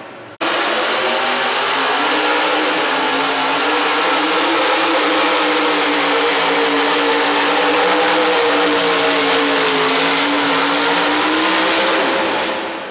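A pulling truck or tractor's engine running hard at high revs under load. Its pitch sags a little and recovers, and the sound fades near the end.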